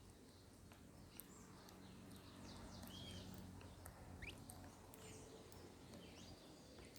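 Small birds chirping faintly, with many short chirps and arched calls overlapping throughout and a few sharp clicks among them.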